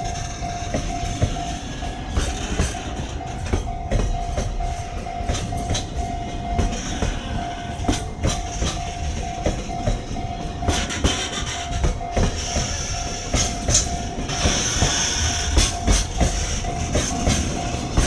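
Freight train rolling past, its wheels clacking over rail joints in a run of irregular clicks over a steady rumble, with a steady high tone underneath.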